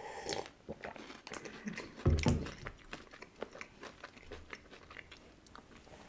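Close-up crunchy chewing of a chocolate-covered candy with a wafer-like filling, many short crisp crunches. A single heavy thump about two seconds in is the loudest sound.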